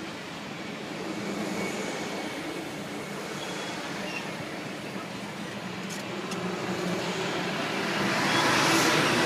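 Passenger railcars rolling slowly past close by: a steady rumble of steel wheels on the rails, with a couple of clicks about six seconds in. It swells louder and brighter near the end.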